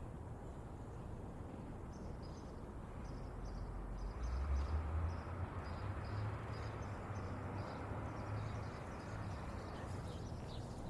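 Small birds chirping in short, repeated calls over a steady outdoor background, with a low rumble that swells about four seconds in.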